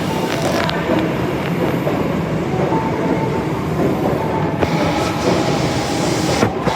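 Osaka Metro Tanimachi Line 22 series subway train running, a steady loud rolling rumble of wheels on rail with faint steady tones above it.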